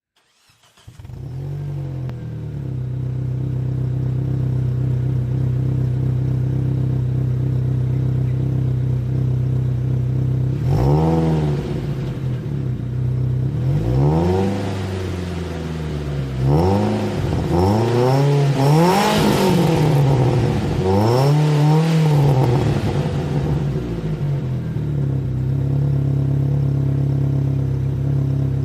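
Proton Saga BLM with a 4-2-1 header and dual exhaust idling steadily, then revved about five times in quick succession partway through before settling back to idle.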